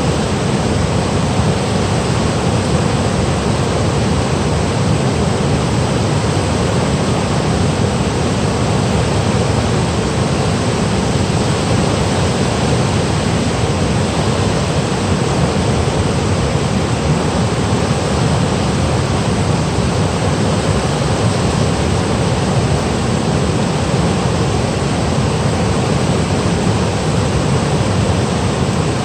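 Mountain valley stream rushing over rocks and small falls, a loud, steady, unbroken wash of water noise.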